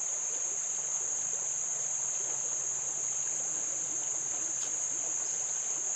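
Steady high-pitched chorus of insects, crickets or similar, with the creek's running water as a faint hiss beneath.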